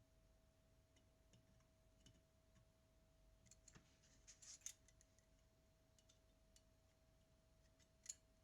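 Faint light clicks and small metallic taps, a few scattered, then a cluster about halfway through and one sharper click near the end, over a faint steady hum. These fit small parts and tools being handled while working on a Zenit TTL camera.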